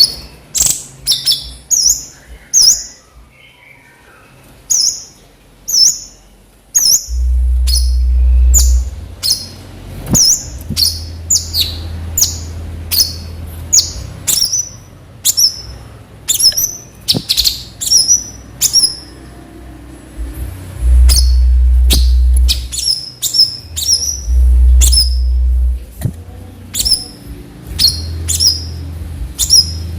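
Cucak cungkok songbird calling over and over in short, sharp, high notes, one or two a second, in the loud rapid 'nembak' style. A deep low rumble comes in at times, about seven seconds in and again from about twenty-one seconds.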